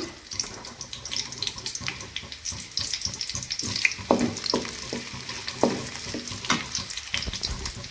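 Chopped small onions and curry leaves sizzling as they fry in sesame oil in a metal kadai. From about four seconds in, a spatula stirs them with a few scraping strokes against the pan.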